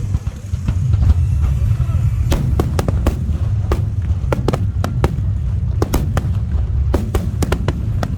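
Aerial fireworks bursting: a deep, continuous rumble of booms with many sharp, irregular cracks from about two seconds in.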